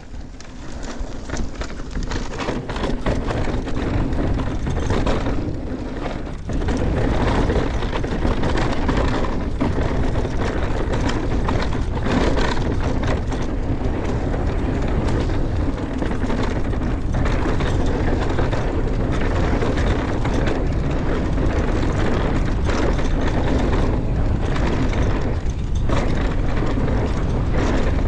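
Mountain bike riding fast downhill: wind rushing over the microphone and tyres on rocky dirt, with frequent knocks and rattles from the bike over bumps. It grows louder over the first six seconds, then holds steady.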